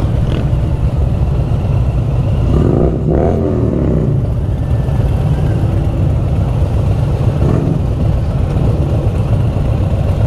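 Motorcycle engines running in slow, heavy street traffic, with one engine revving up and dropping back about three seconds in.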